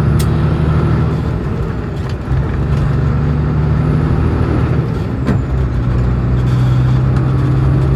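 A vehicle's engine running steadily while driving, heard from inside the cab, its low drone easing briefly about two seconds in, with a sharp click just after the start and another about five seconds in.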